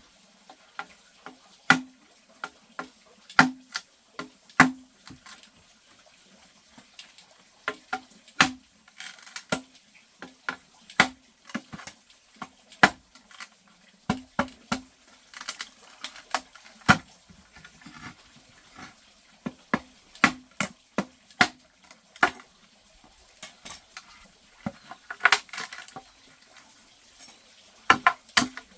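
Irregular sharp knocks and taps, about one a second, some coming in quick clusters, each with a short hollow ring.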